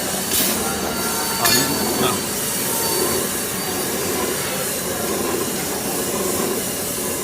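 Steady industrial machinery noise with faint high metallic whining tones and a couple of sharp metal knocks in the first two seconds.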